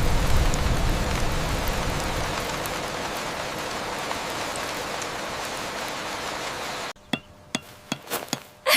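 Steady heavy rain, loudest at the start and easing a little, then cutting off abruptly about seven seconds in; a few faint clicks and knocks follow.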